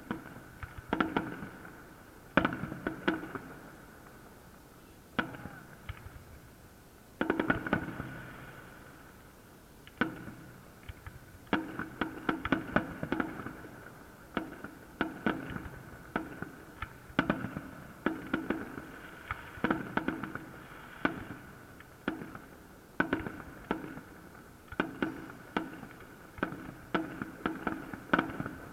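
Fireworks salute: aerial shells bursting in rapid, irregular volleys of sharp bangs. There are a few short lulls in the first ten seconds, then near-continuous bursts.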